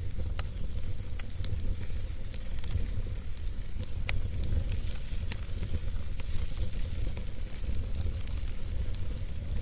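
Wood fire in a fireplace burning steadily: a low rumble of flame with irregular sharp crackles and pops from the burning logs.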